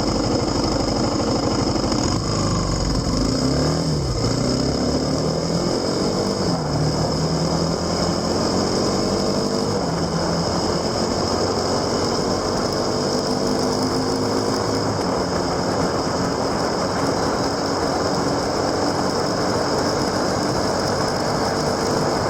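Motorcycle engine running under way, heard from on the bike over wind hiss; its pitch dips and rises a few times early on, then climbs slowly as the bike gathers speed.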